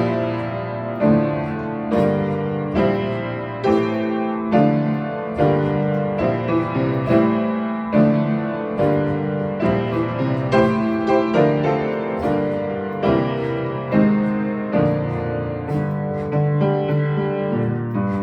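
A 100-year-old upright piano, a little out of tune, playing a slow, gentle neoclassical piece: held chords and single notes struck roughly once a second, each left to ring.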